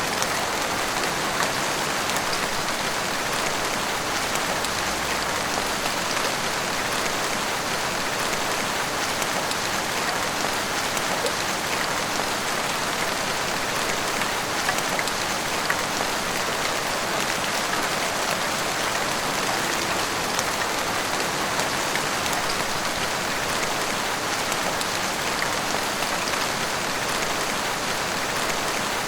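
Heavy rain pouring steadily, an even hiss of falling water dotted with the ticks of individual drops hitting nearby surfaces.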